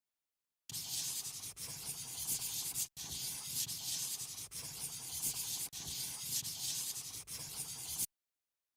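A pen or marker colouring in on paper, scratchy back-and-forth strokes with brief breaks. The sound cuts in and out abruptly.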